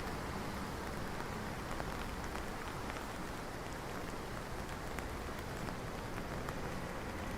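Steady rain falling, with scattered individual drops ticking on hard surfaces.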